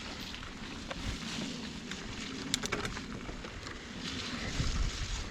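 Mountain bike rolling along a wet dirt trail: steady tyre and ride noise with a low rumble, and a few sharp clicks or rattles about two and a half seconds in.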